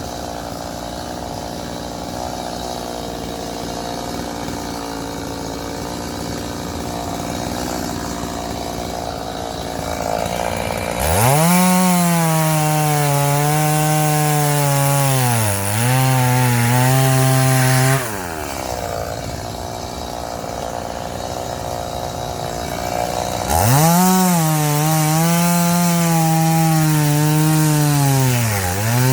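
Chainsaw idling, then run up to full throttle to cut firewood logs twice: the first cut is about a third of the way in and lasts about seven seconds, and the second starts near the end. In each cut the engine pitch sags briefly as the chain loads up in the wood, and the saw drops back to idle in between.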